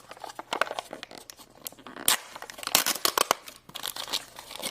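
Packaging of a Num Noms surprise cup being torn open and crinkled by hand: a dense run of crackling rips, loudest around the middle.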